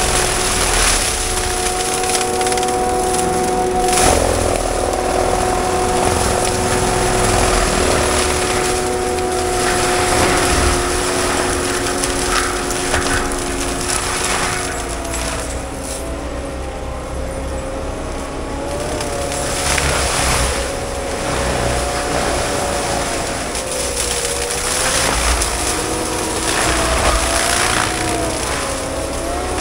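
Diesel engine of heavy tracked equipment running steadily, its pitch shifting now and then, with a wavering rise and fall of revs late in the stretch.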